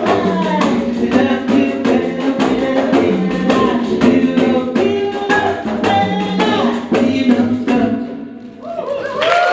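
Live song of pandeiros (Brazilian frame drums) playing a fast run of strikes under singing voices; the music stops about eight seconds in and applause starts just before the end.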